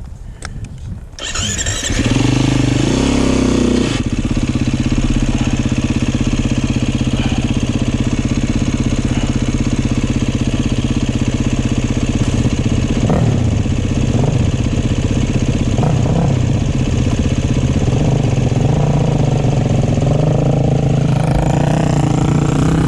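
Dirt bike engine starting about a second in, then running loud and steady at an even speed.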